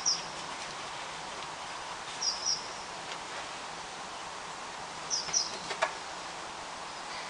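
A small bird calling three times, each call a pair of quick high chirps, over a steady outdoor hiss. A single light click comes near the end.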